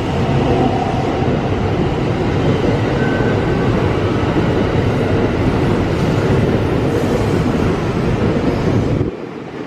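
A JR conventional-line train running along the platform track: a steady, loud rumble of wheels on rails. It cuts off abruptly near the end and gives way to a quieter hiss, like wind on the microphone.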